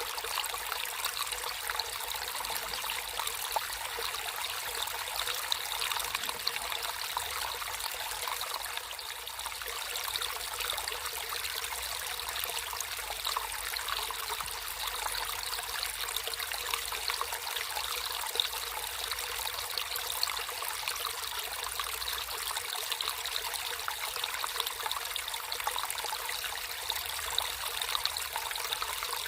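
Water flowing and trickling steadily in a small natural stream: an even, light splashing with little low rumble.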